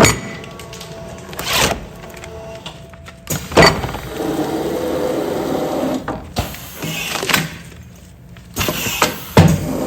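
Automatic food-container sealing machine cycling in continuous operation: a couple of seconds of running hum alternate with sharp mechanical clunks, the cycle repeating about every six seconds.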